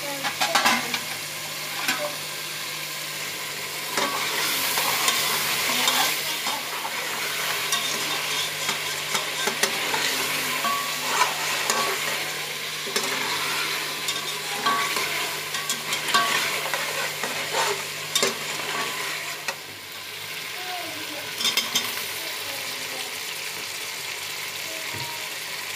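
Meat masala sizzling as it fries in an aluminium pressure-cooker pot, with a metal spatula scraping and knocking against the pot as it is stirred. A steady hiss runs under scattered sharp clinks.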